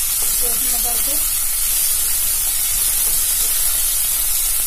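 Fresh green peas sizzling in hot oil in a kadhai as they are stirred with a wooden spatula: a steady frying hiss.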